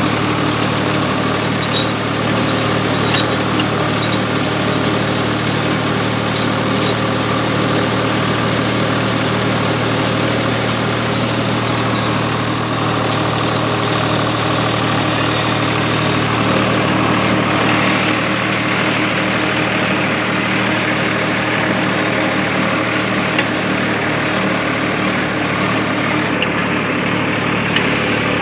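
Swaraj 735 tractor's diesel engine running at a steady speed, without revving up or down.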